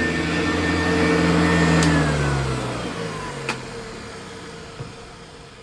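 Hoover U4007 upright vacuum running steadily, then switched off with a click about two seconds in; its motor whine falls in pitch and fades as it spins down, with another click about a second later.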